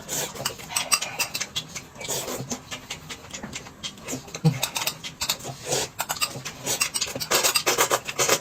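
Close-up eating sounds: noisy chewing and wet lip-smacking in a rapid, irregular run of clicks and smacks.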